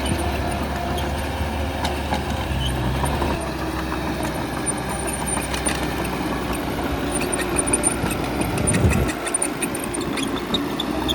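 Heavy diesel bulldozer engine running steadily, with scattered metallic clanks and knocks that come more often in the second half. About three-quarters of the way through, the low engine rumble falls away suddenly.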